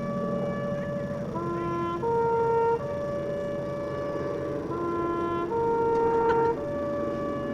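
A repeating three-note tone signal: a short low note, a slightly higher note, then a long held higher note, cycling about every three seconds. A steady drone runs beneath it.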